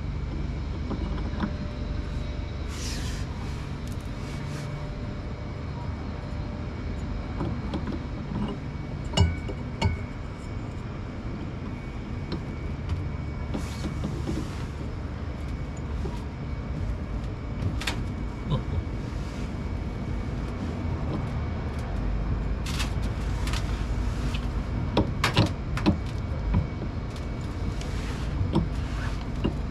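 Top-loading washing machine running with a steady low hum, with scattered clicks and several short bursts of hiss.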